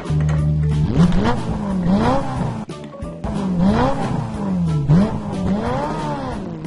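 Background music loop with repeated rising-and-falling glides like revving engines, coming round about once a second.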